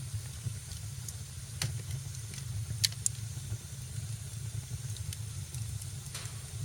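Wood fire crackling in a fireplace: a steady low rumble with sharp pops scattered through it, the loudest a little under three seconds in, with another just after it.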